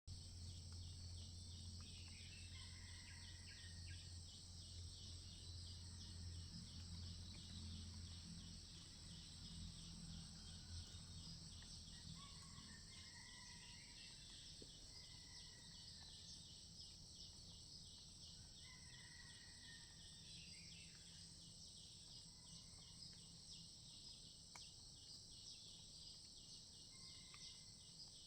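Faint insect chorus of steady high trilling with an even pulse, with short bird whistles now and then. Under it a low hum fades down after about ten seconds.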